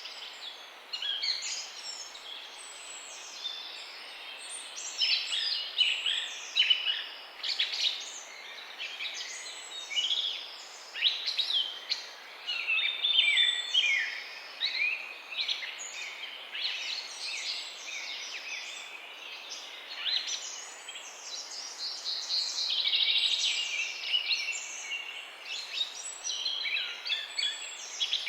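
Several songbirds chirping and singing together: a continuous chorus of short, overlapping chirps and quick sweeping notes, all high-pitched, over a faint background hiss.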